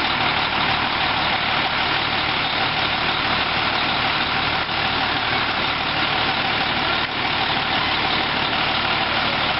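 Fire truck engine running steadily under a constant rushing noise.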